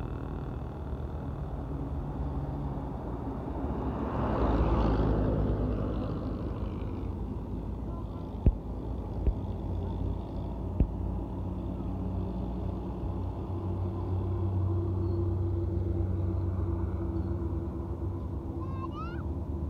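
Truck engine running with road noise while driving, a steady low rumble. A rushing swell comes about four seconds in, and three sharp clicks follow near the middle.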